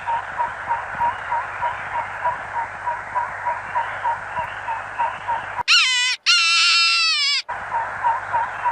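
High-pitched bleating: a short bleat about two-thirds of the way in, then a longer wavering one. Behind it runs a steady series of short chirps, about three a second, over a hiss.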